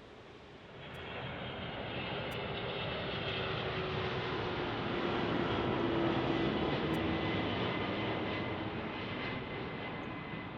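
Jet airliner's engines passing. The noise swells about a second in, is loudest mid-way and fades near the end, with a steady high whine over it and a slowly falling lower tone.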